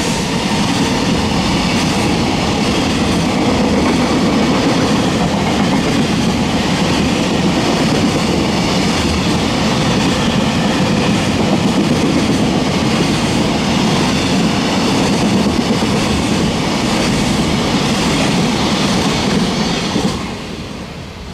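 Container freight wagons rolling past at speed, a steady rush of wheels on rails that fades away about twenty seconds in as the last wagon clears.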